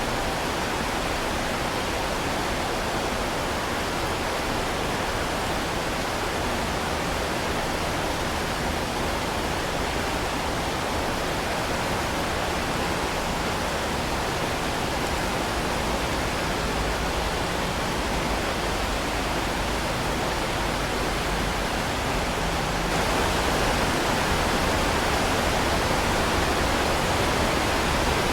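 Heavy rain falling steadily as an even, dense hiss with no separate drops or thunder, growing a little louder about 23 seconds in.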